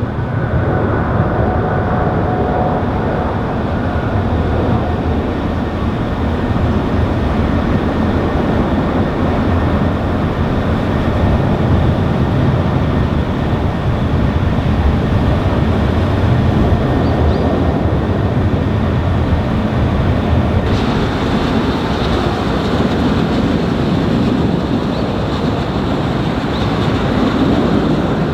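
Boeing 777 twin jet engines running loud and steady, a deep rumble with a broad roar over it. About two-thirds of the way in, the rumble drops and a higher hiss comes up.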